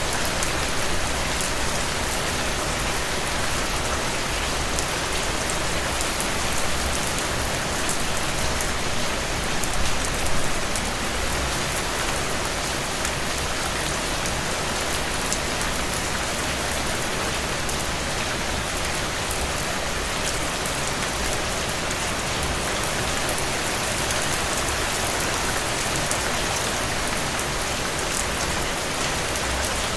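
Steady, heavy rain falling on a surface, a dense even hiss with scattered close drop ticks.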